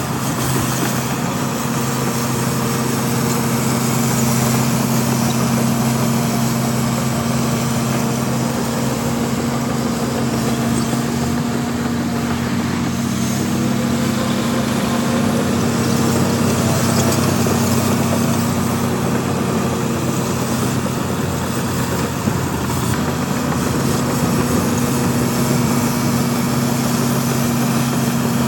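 Heavy diesel earthmoving machinery running steadily, a constant low engine drone that hardly changes.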